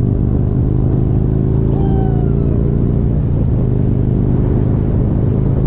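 Motorcycle engine running steadily with a deep, even exhaust note.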